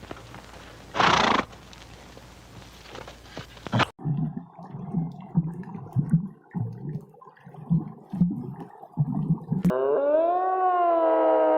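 A string of animal calls, cut together. First a short, loud, breathy burst about a second in. After a cut, a run of low, regular grunts about twice a second. Near the end, a long wavering howl-like call begins.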